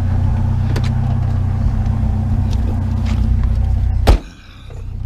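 Vehicle engine idling steadily with a low hum, and a single loud thump about four seconds in, after which the engine sound drops away for about a second.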